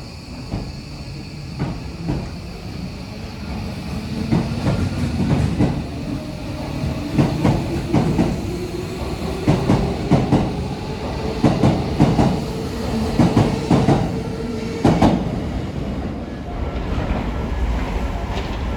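Electric train pulling out, its wheels clacking over the rail joints in quickening pairs. Under the clacks a motor whine rises slowly in pitch as the train gathers speed. The clacks die away near the end, leaving a low rumble.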